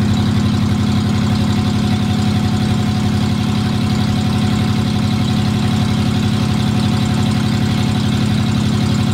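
Ford 302 (5.0 L) V8 with straight headers, running at a steady cruise and heard from inside the car's cabin: a loud, even exhaust drone with a fast, regular pulse and no change in pitch.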